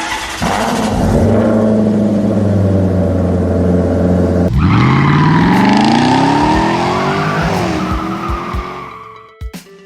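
Car engine and tyre-squeal sound effects for a miniature car race: an engine revving high and steady, then about four and a half seconds in a second engine revving up, rising in pitch with tyres screeching, fading away near the end, with a couple of short knocks.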